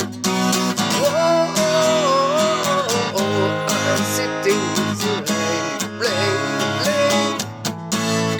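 Strummed acoustic guitar chords playing an instrumental break in a folk-rock song, with a gliding, bending lead melody line on top.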